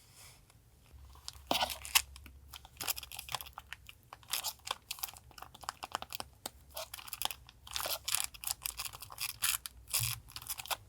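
Paper and plastic sticker packaging being handled, with short, irregular crinkling and crunching sounds starting about a second in.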